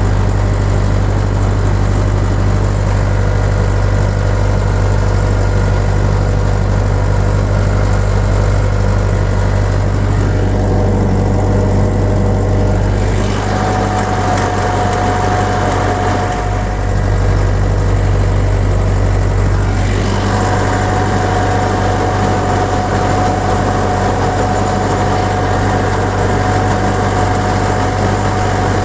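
YTO EMF 604 tractor's diesel engine running steadily with its PTO turning at 1000 rpm, driving a large digger implement. A steady whine comes in about halfway and holds.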